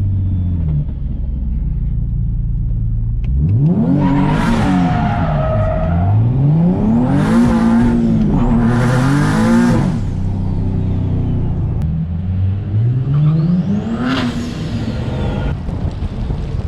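Turbocharged Nissan 370Z's 3.7-litre V6 running steadily at low revs, then revving hard about three seconds in and climbing in pitch four times as it is driven through the gears. Each climb tops out in a brief loud rush of hiss before the pitch drops again.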